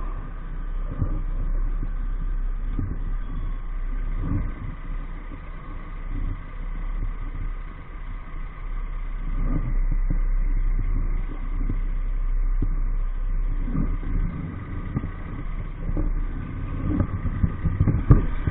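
EAYS Pro 50cc moped engine running under way with a steady whine, and uneven low rumbling of wind buffeting the microphone.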